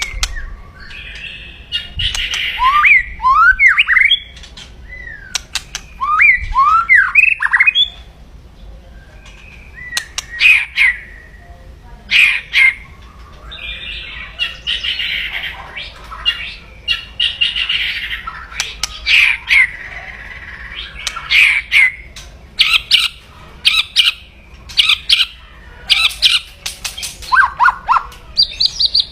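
White-rumped shama (Medan murai batu) giving harsh, rasping 'kretek' chatter calls mixed with sharp clicks and short downward-swooping notes, its aggressive call. The swooping notes come mostly in the first few seconds; later the calls turn into strings of quick clicks between rasps.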